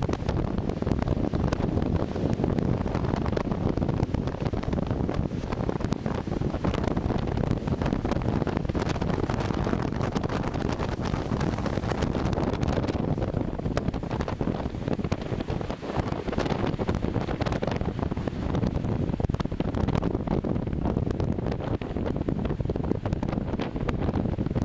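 Strong wind buffeting the camera microphone: a steady, loud rumble with crackling gusts.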